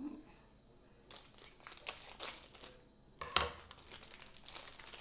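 Plastic food packaging crinkling as it is handled, in irregular crackles, with a single louder knock about three and a half seconds in.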